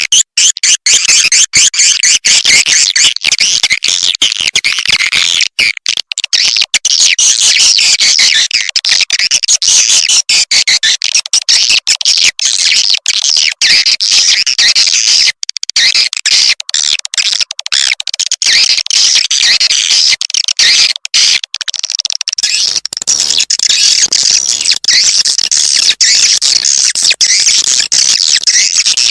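Recorded swiftlet call played as a lure for swiftlet houses: a dense, unbroken chorus of high, chattering swiftlet chirps, played loud.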